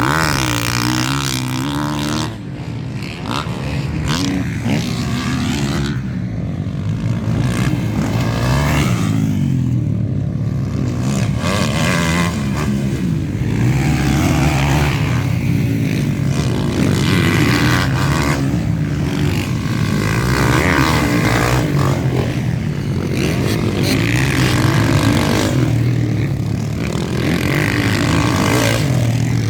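Motocross bikes racing, their engines revving up and dropping again and again as riders accelerate and shift.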